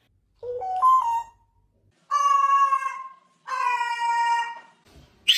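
A parrot calling. First comes a short call stepping up in pitch, then two long calls of about a second each, each dropping slightly in pitch, and a brief shrill squawk near the end.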